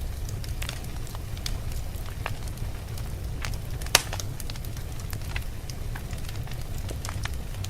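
Wood fire in a fireplace crackling with scattered small pops and one sharp, louder pop about four seconds in, over a steady low rumble.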